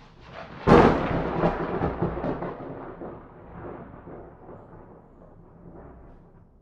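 A thunderclap: a sharp crack about a second in, then a long rolling rumble with crackles that slowly fades away.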